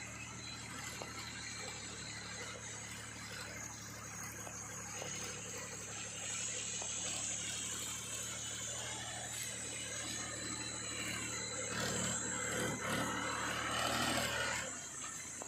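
Diesel engine of heavy earth-moving machinery running steadily, with some rattling; the low engine hum drops away near the end.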